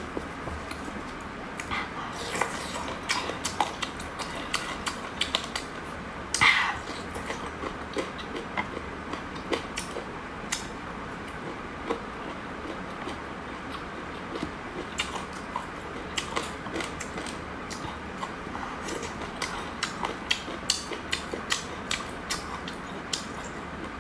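Close-miked mukbang eating sounds: chewing with many small irregular crunchy clicks, and one louder, longer noise about six and a half seconds in.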